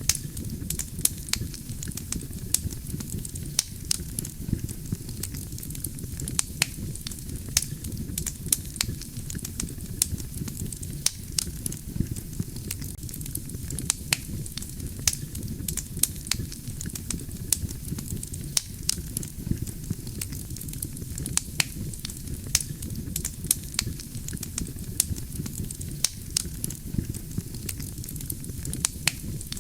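Wood fire burning: a steady low rumble of flames with frequent irregular sharp crackles and pops of burning logs.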